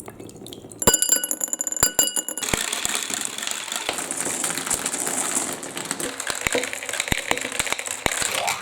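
Bright ringing clinks for about a second and a half, then water running down a toy-block marble run with scattered clicks of marbles rattling along the plastic track.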